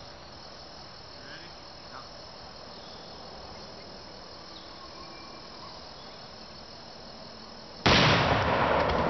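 Steady high-pitched chirring of insects in the background. About eight seconds in, a sudden loud rush of rustling, crackling noise begins and continues.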